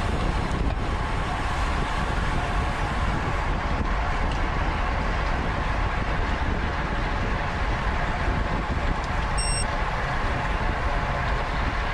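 Steady wind noise rushing over the microphone of a bike-mounted camera on a road bike at race speed. A short, high chirp comes about nine and a half seconds in.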